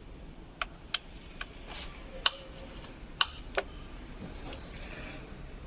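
Scattered light clicks and taps, about six at irregular intervals, of hand tools and plastic parts being handled while the intake pipe is taken off a car engine.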